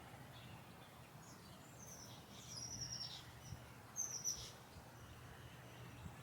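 Small birds chirping: two short runs of quick high chirps about two and four seconds in, over a faint low steady hum.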